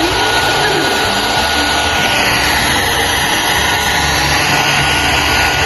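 Handheld hair dryer running steadily: a loud, even rush of blown air with a thin, steady whine from the motor.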